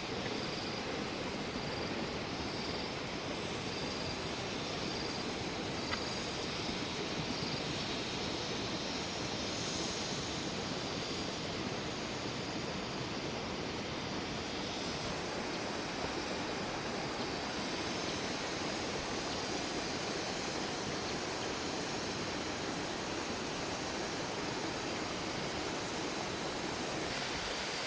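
Steady rushing noise, even and unbroken, of the kind made by flowing water. A faint high chirp repeats about every 0.7 s through the first half.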